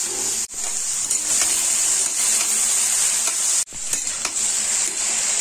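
Grated cauliflower sizzling as it fries in hot mustard oil in a metal pan, with a spatula scraping and stirring through it. The sound drops out briefly twice.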